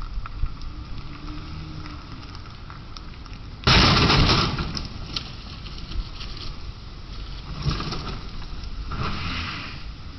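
Steady road and engine noise from a car, broken about four seconds in by a sudden loud crash that fades over about a second; two weaker noisy swells follow near the end.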